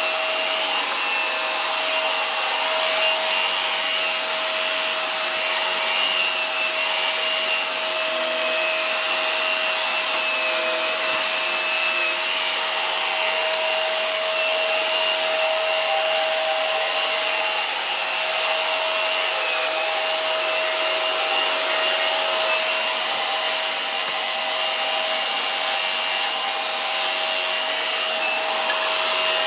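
Hoover PowerDrive Pet bagless upright vacuum cleaner running steadily, a constant motor whine over the rush of air, as it picks up fur from carpet.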